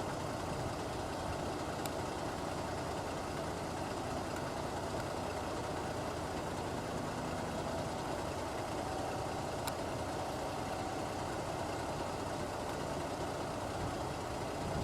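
A vehicle engine idling steadily, with a faint click twice.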